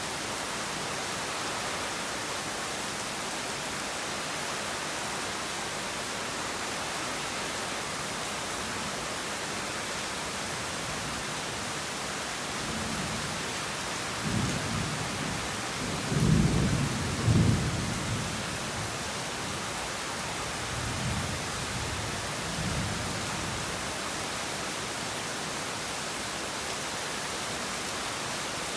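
Steady heavy rain hissing, with a roll of thunder rumbling in about halfway through, peaking in two loud cracks a few seconds later and fading over several seconds.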